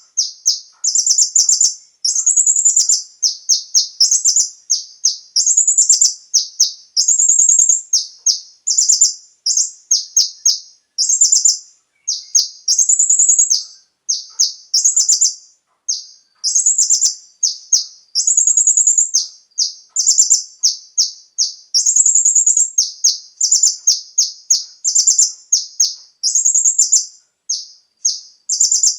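Kolibri ninja (konin) sunbird singing: rapid, high-pitched chirping trills in phrases of about a second, one after another with brief gaps.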